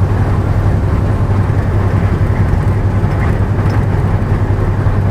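A semi truck's diesel engine running steadily, heard from inside the cab: an even low hum with a noisy rumble over it.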